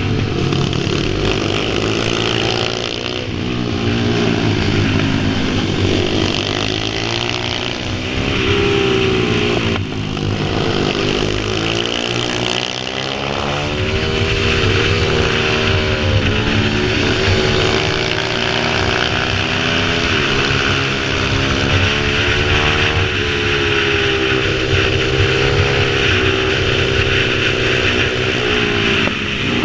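Pit bike engine running under changing throttle, its pitch rising and falling again and again as it revs up and drops back.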